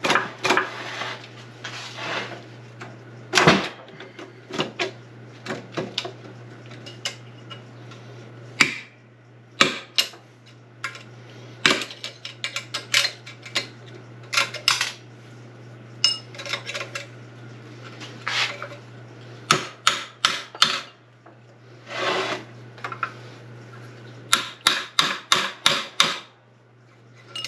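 Irregular metallic clinks, taps and clanks of hand tools against steel transmission parts as an SM465 gearbox is taken apart to work a shaft bearing loose, with a quick run of taps near the end. A steady low hum runs underneath.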